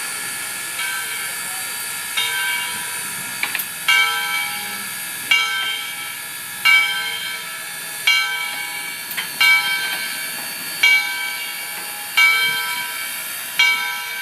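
Bell of a 1904 steam locomotive ringing with a stroke about every second and a half, over a steady hiss of steam.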